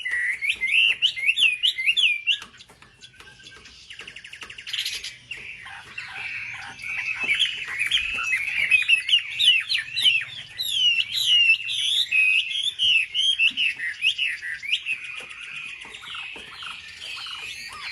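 Wambi bird singing in fast runs of sharp, up-and-down chirping whistles. The song pauses briefly a few seconds in, then comes back dense and busy.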